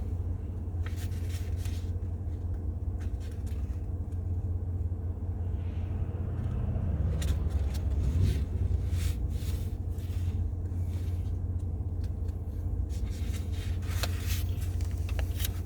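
Steady low background rumble with a few faint clicks and rustles.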